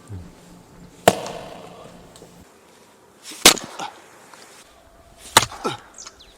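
Axe splitting firewood: three sharp chops about two seconds apart, the first with a short ring after the hit, the later two followed by lighter knocks.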